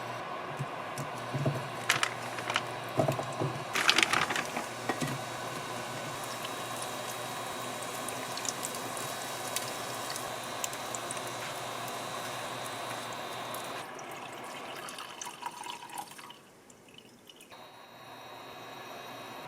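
Kitchen tap running steadily, with a few knocks and clatter of utensils or dishes in the first seconds; the water stops about fourteen seconds in.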